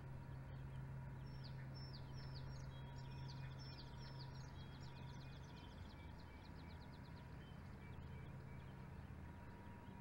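A small bird singing faintly: a run of quick down-slurred notes that speeds up into a trill and stops about three quarters of the way through. A steady low hum runs underneath.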